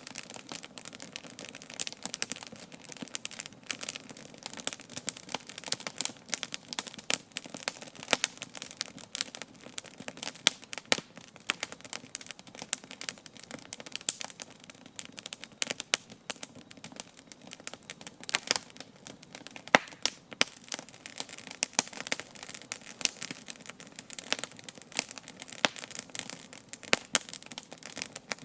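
Wood campfire crackling: a dense, irregular run of small snaps and pops, with a few louder sharp cracks among them.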